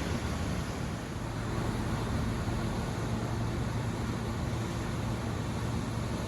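Steady rush of ocean surf and wind, with a low steady hum setting in about a second in.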